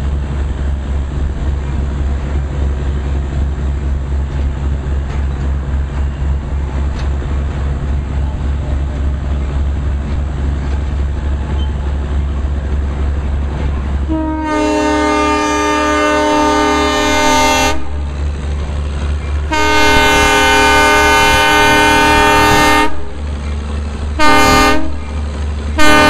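Narrow-gauge train running with a steady low rumble, then its horn blows two long blasts, a short one and the start of another long one: the long-long-short-long pattern of a grade-crossing signal.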